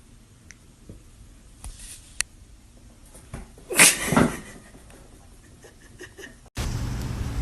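A cat cries out once, loud and brief, a little under four seconds in, over quiet room sound with a few faint clicks. Near the end a cut brings in a steady rushing noise.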